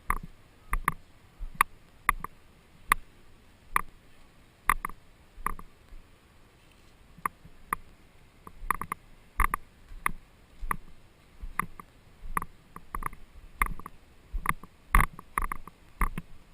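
Kayak paddling: short, sharp knocks and splashes of paddle strokes, uneven at about one to two a second, with a lull of a couple of seconds partway through.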